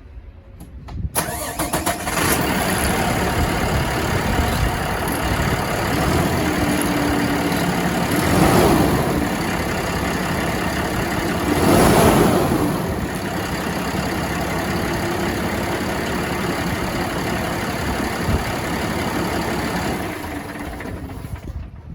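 2016 Kenworth T370's diesel engine cranking and catching about a second in, then idling steadily. It is revved up and back down twice in the middle, returns to idle, and stops near the end.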